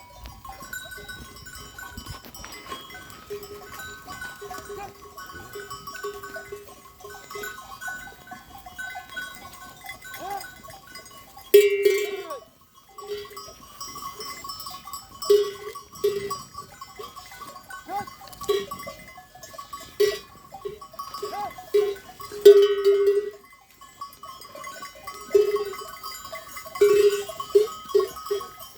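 Bells on grazing sheep clanking irregularly as the animals move and feed, sparse at first and busier in the second half, with one sharp loud clank about twelve seconds in.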